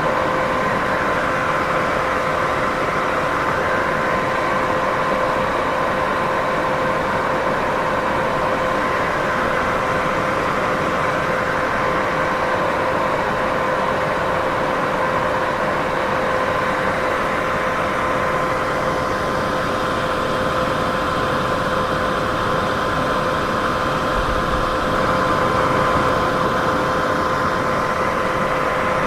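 Continuous white noise: an even, unchanging hiss with a steady hum of two fixed tones running through it.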